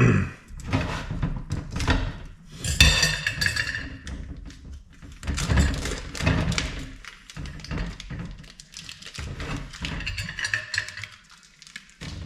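Plastic packaging of a supermarket beef brisket being cut and pulled open by hand, with crinkling and rustling and a run of knocks and clunks against the bench and dishes.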